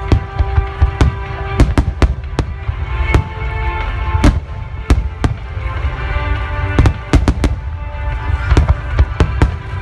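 Aerial fireworks shells bursting: a dozen or more sharp bangs at irregular intervals, some in quick clusters, over a deep rolling rumble. Music plays underneath.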